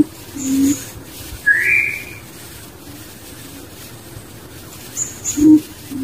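Birds calling: short low hooting notes near the start and again near the end, a single rising whistle about a second and a half in, and a few faint high chirps.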